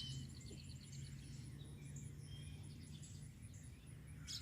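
Songbirds chirping and singing faintly, with a quick run of repeated short notes in the first second, over a steady low hum.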